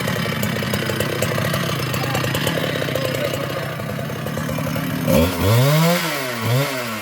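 Two-stroke Husqvarna chainsaw running steadily at high speed, then from about five seconds in blipped on the throttle twice, its pitch sweeping up and dropping back each time.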